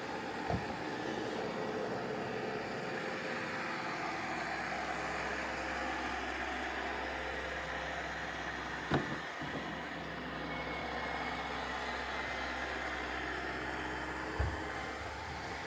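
Roomba robot vacuums running: a steady whirr of vacuum motors and spinning brushes, with three short knocks, about half a second in, midway, and near the end.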